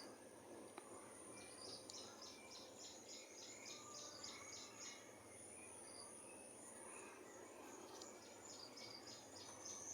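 Faint outdoor ambience with a rapid run of high, evenly repeated chirps, about four a second, that stops about halfway and starts again near the end.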